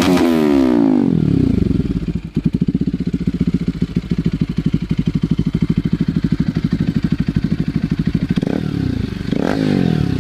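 Bajaj Pulsar 200NS single-cylinder engine breathing through an aftermarket Tiger TRI 800 muffler with the catalytic converter kept. Revved at the start, it falls back to a steady, evenly pulsing idle for several seconds, then is revved again near the end.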